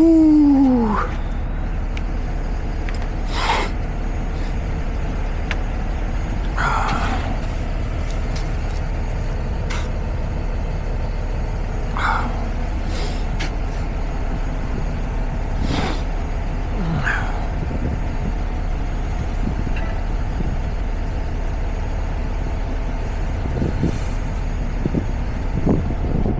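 Semi-truck diesel engine idling with a steady low rumble. A loud tone falls in pitch during the first second, and a few short sounds come and go over it.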